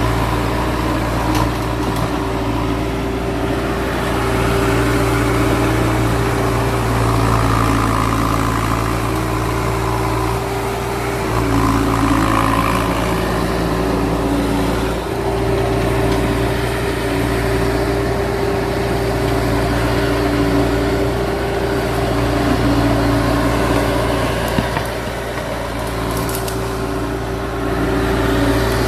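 Skid steer loader's engine running steadily under work, its note dipping and shifting every few seconds as the load changes.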